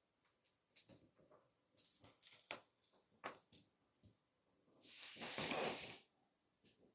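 Close-miked eating sounds of chewy grilled cheese rice cake: scattered small wet clicks of chewing, with a louder rustling swell of about a second a little past the middle.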